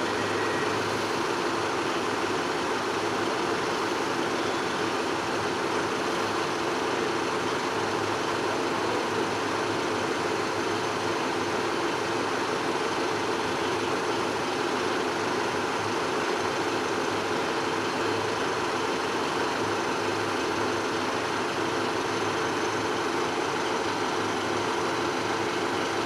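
Diesel multiple unit standing at the platform with its engine idling: a steady, unchanging hum and drone.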